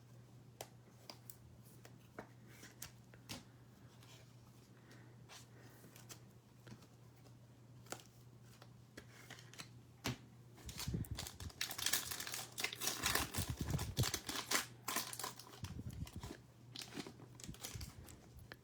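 A trading card pack being torn open, its wrapper crinkling, starting about ten seconds in after a few faint clicks.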